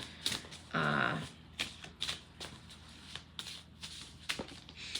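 Oracle cards being handled and shuffled: a run of light flicks and rustles, with a short hum-like vocal sound about a second in.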